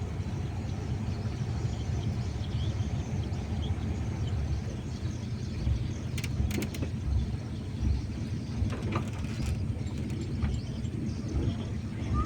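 Steady low rumble of a running vehicle engine, with a few faint clicks and knocks about halfway through.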